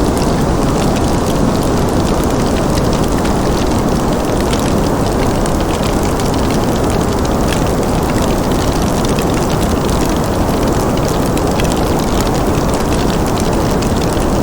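Wood fire crackling in a fireplace: many small, irregular pops and snaps over a steady, dense rushing noise.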